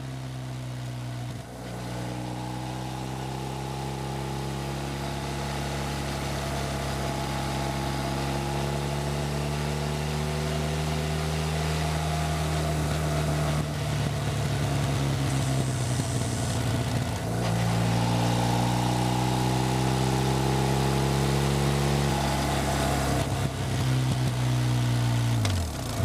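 BMW Rockster motorcycle's boxer-twin engine running under load while riding, its pitch slowly climbing. The note dips and picks up again at gear changes about a second in and just before the end, and breaks up briefly around the middle as the throttle rolls off and on. Wind rush runs underneath.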